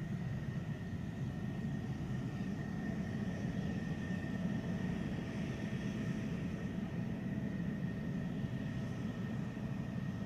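Jet engine running steadily: an even rush of noise with a steady high-pitched whine over it.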